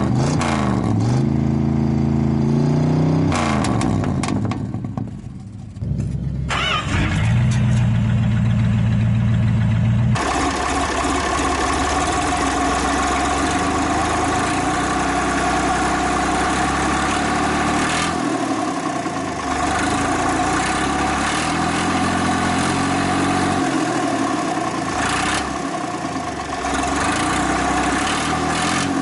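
Engine running through a Flowmaster Super 10 muffler fitted over its exhaust. It revs up and down in the first few seconds, then changes abruptly about ten seconds in to a steady idle that holds to the end.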